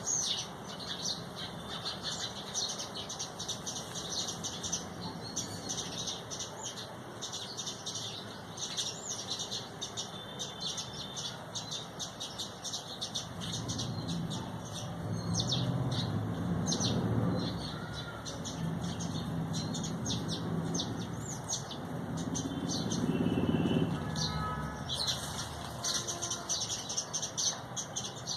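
A flock of small birds chirping rapidly and continuously, many calls overlapping. A lower, fuller sound joins in from about halfway through and fades near the end, as the chirping briefly thins.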